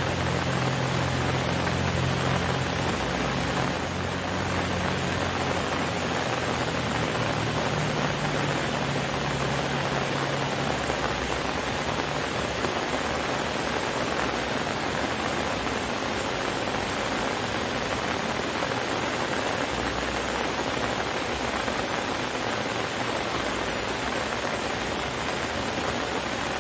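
Heavy rain falling, a steady even hiss. A low hum underneath fades out over roughly the first ten seconds.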